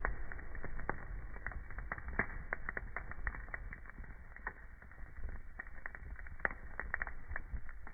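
Wood fire crackling in a fireplace: irregular sharp pops and snaps, several a second, over a low rumble of burning.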